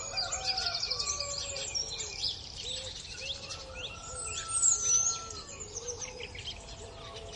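Several wild birds calling at once in a busy mix of short chirps and whistles. A louder whistled call slides down in pitch about four and a half seconds in.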